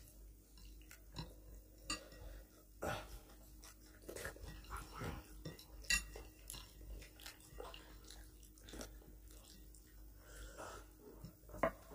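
Quiet chewing and mouth sounds of people eating mutton curry and rice by hand, with scattered short clicks and taps from fingers and food on the plates.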